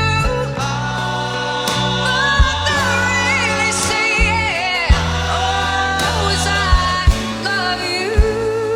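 A woman singing a soulful ballad with vibrato over a band, with sustained bass notes and drum hits underneath.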